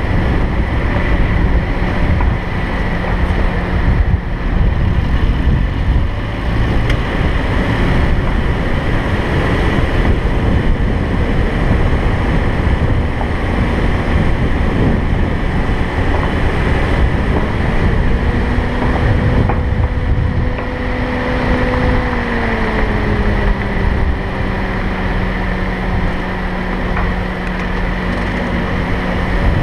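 Loud, steady wind and road noise of a vehicle driving along a road. Partway through, a humming engine tone comes in and then slides down to a lower pitch a few seconds later.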